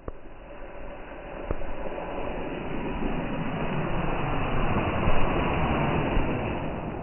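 A vehicle passing by: a rushing noise that swells over a few seconds, peaks about five seconds in and then fades, with a single sharp crack about a second and a half in.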